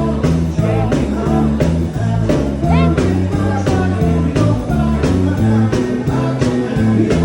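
Band playing an upbeat rock-and-roll number: drums keeping a steady beat under a stepping bass line and electric guitar, with some singing.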